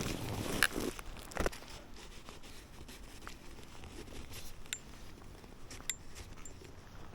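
Snowshoe steps crunching in fresh powder snow for about a second and a half, then quieter rustling with scattered small clicks.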